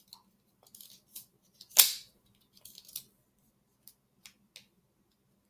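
A slap bracelet being handled: scattered light clicks and rustles, with one sharp snap about two seconds in.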